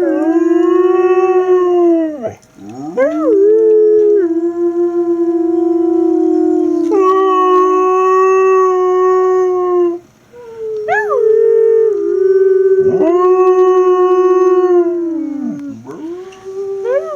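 Siberian husky howling: a run of long howls, each swooping up at the start and then held at a steady pitch for several seconds, with short breaks between them.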